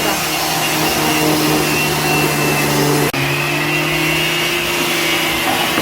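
A woodworking power tool running steadily with a constant hum, broken off for an instant about three seconds in and then running on.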